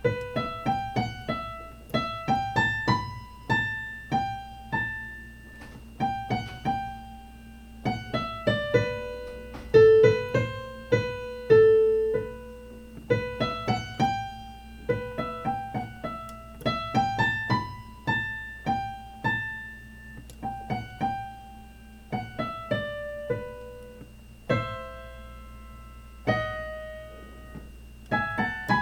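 Piano playing a simple melody of single notes, each struck and left to fade, in a steady rhythm with short pauses between phrases.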